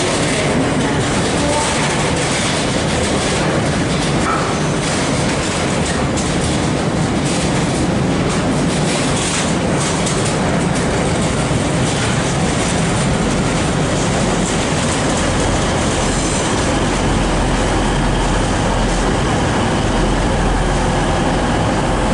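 Freight train of open box wagons rolling past close by, steel wheels clattering steadily over the rail joints.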